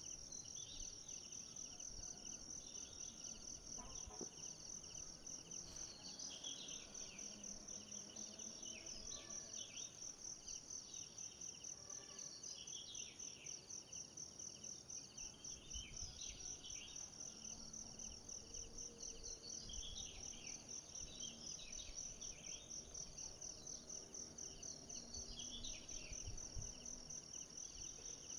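Forest ambience: insects trilling continuously in a fast, even pulse high in pitch, with many short bird chirps scattered throughout.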